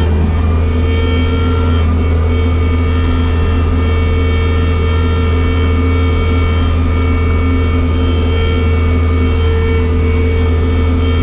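Bobcat skid-steer loader's diesel engine running steadily.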